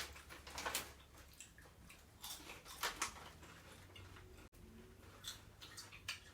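Potato chips crunched while being eaten: a few faint, irregular crunches.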